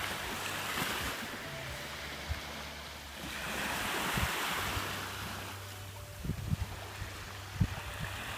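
Sea waves washing in on a sandy beach, swelling twice, about a second in and again a few seconds later, with wind rumbling on the microphone.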